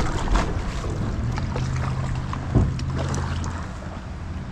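Kayak being paddled: water swishing with the strokes and a couple of sharp knocks of the paddle against the hull, over a low steady rumble that fades near the end.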